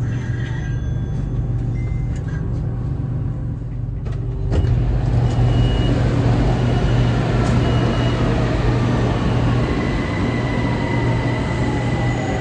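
BTS Skytrain electric train running with a steady low hum that grows louder about four seconds in, while a motor whine falls steadily in pitch as the train slows.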